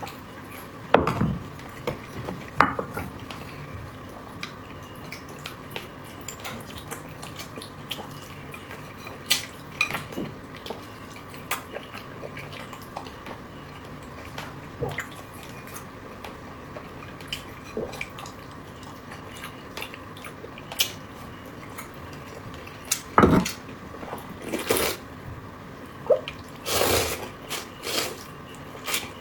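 A person eating: scattered clicks and taps of utensils against dishes, with wet eating noises in between.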